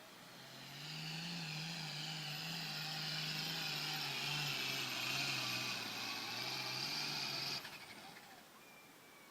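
Turbocharged diesel pulling tractor running hard at full throttle, a high whine over the engine note. It builds about half a second in and cuts off suddenly near the end as the throttle is shut.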